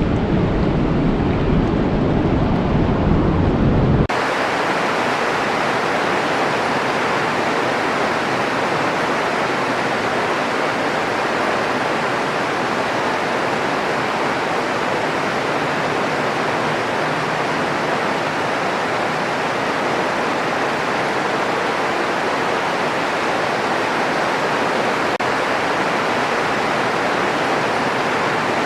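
Steady rain. About four seconds in, a deeper, rumbling rain sound cuts off suddenly and is replaced by a brighter, even hiss of falling rain.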